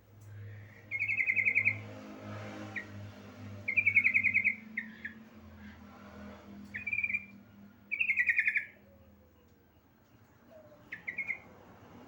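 Female yellow-vented bulbul (trucukan) calling to a male: short bursts of rapid chattering notes, four main bursts a couple of seconds apart and a brief one near the end.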